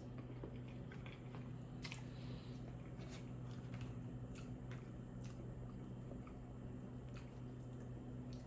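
A person chewing food with the mouth close to the microphone: faint, irregular wet mouth clicks and smacks.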